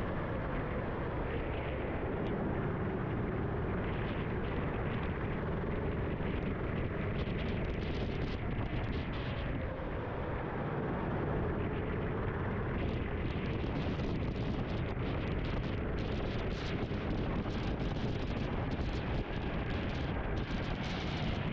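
Onboard sound of a racing kart: the kart engine running under a steady rush of wind over the microphone. From about halfway through, sharp crackling clicks join in.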